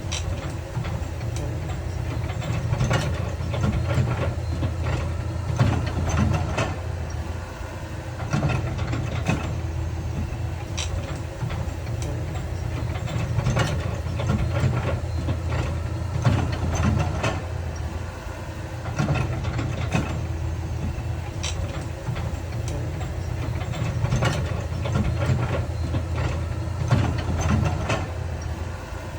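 Heavy diesel earthmoving machinery running steadily, with scattered sharp metallic clanks and knocks throughout.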